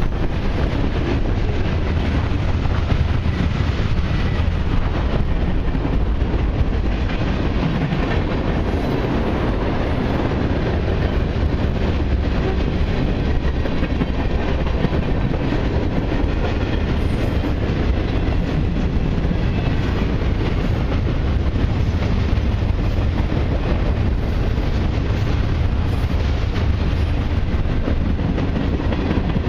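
Cars of a long freight train rolling past, a steady rumble of steel wheels on the rails.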